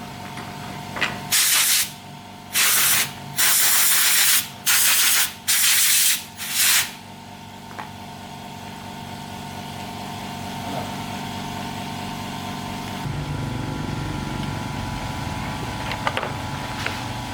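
Five short bursts of hissing spray from an air or spray nozzle, each switched on and off sharply, over a steady machine hum. The hum gets louder about three-quarters of the way through.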